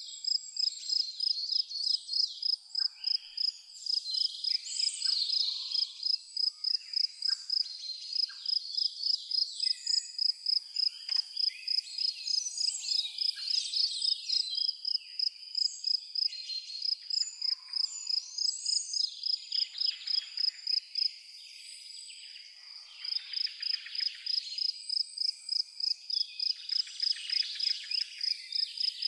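A cricket chirping in a steady, even pulse of about three chirps a second, stopping for about two seconds late on and then resuming, while songbirds twitter and sing over it.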